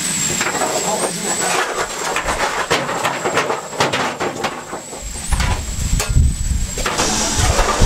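Railway train noise: irregular metallic clanks over a steady high-pitched hiss, with a heavy low rumble coming in about five seconds in.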